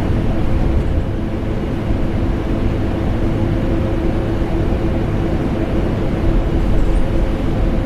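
Vacuum cleaner and air conditioner running steadily together: an even, deep rushing noise with a steady hum on top.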